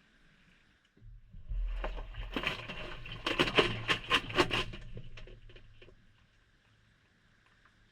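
Maytag front-loading washer's drum turning briefly on the delicate cycle, heard from inside the drum. A low motor hum starts about a second in, then wet laundry and water tumble and splash with light knocks for a few seconds before the drum slows and stops.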